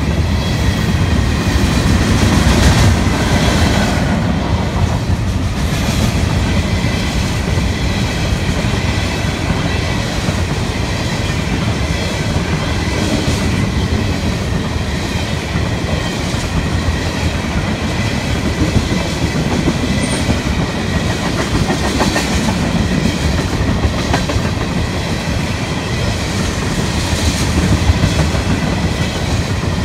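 Freight train of tank cars rolling past: a steady rumble of steel wheels on rail, with clicking as the wheels cross rail joints.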